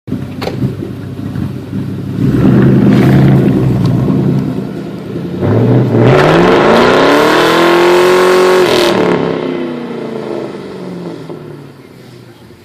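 2004 Mustang GT's 4.6-litre modular V8, mufflers deleted with stock cats and resonators, running loud. About five seconds in it accelerates hard, its note rising steadily for about three seconds, then the note drops off and fades away.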